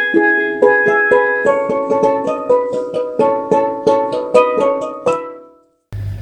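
Steelpan music: a quick run of struck, ringing notes that stops about five seconds in and dies away. A steady low hum starts just before the end.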